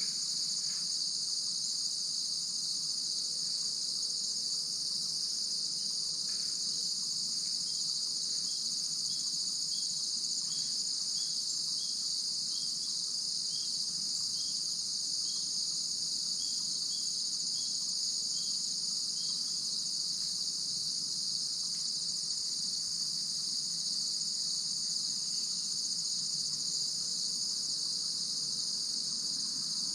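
Steady, high-pitched chorus of insects such as crickets, with a run of short, faint chirps, about two a second, from roughly eight to nineteen seconds in.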